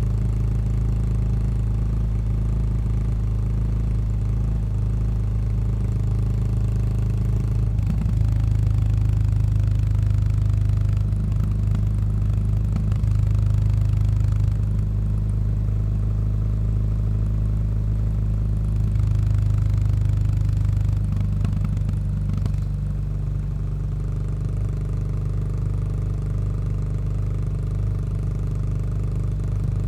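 Exhaust of a Yamaha SR400's single-cylinder engine through a Goods tapered-cone slip-on muffler, running steadily. The note changes and grows a little louder about eight seconds in, and shifts slightly again a little after twenty seconds.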